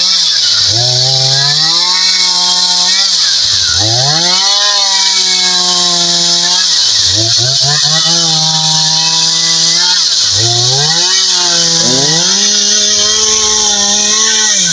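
Two-stroke chainsaw running at high revs, with the throttle let off and opened again about every three to three and a half seconds, so the pitch falls and climbs back each time.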